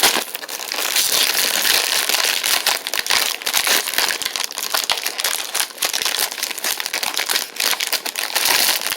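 Cookie packaging crinkling steadily as it is handled after being opened, a dense run of crackles with no break.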